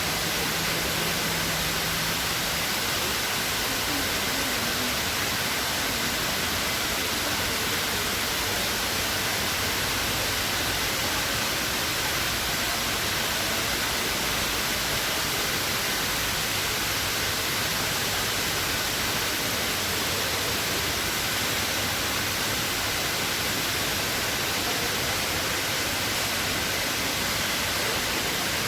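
Water pouring steadily down the Dubai Mall Waterfall, a tall indoor cascade, giving a continuous, even rush.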